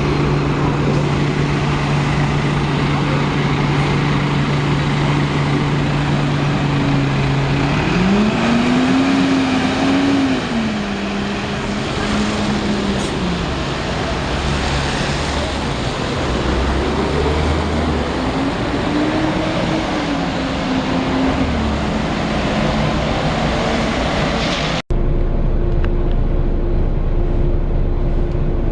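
Volvo B9TL double-decker bus's diesel engine heard from on board: idling steadily, then revving up and dropping back twice as it pulls away and changes gear, over a steady rushing hiss. The sound cuts abruptly near the end to a quieter, lower stretch.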